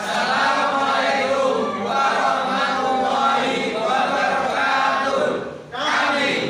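A musholla congregation chanting together in unison, many voices blending into one steady chant, with a brief pause for breath a little before the end.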